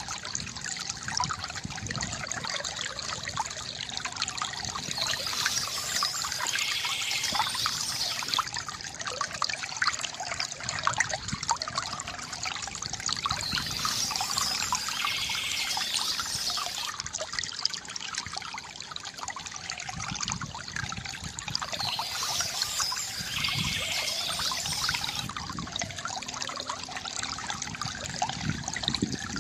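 Water from a bamboo fountain trickling and splashing steadily.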